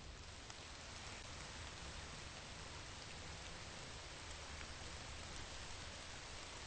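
Steady rain: an even, faint hiss with the odd drop ticking.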